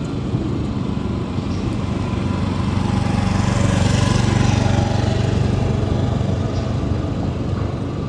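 A boat's engine running as it passes, a steady low drone that grows to its loudest about halfway through and then fades a little.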